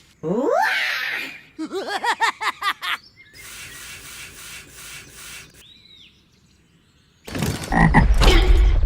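Edited-in cartoon-style sound effects: a quick rising whistle-like glide, then a rapid run of bouncing pitched chirps, a stretch of faint hiss, and a loud low rumble that starts about seven seconds in.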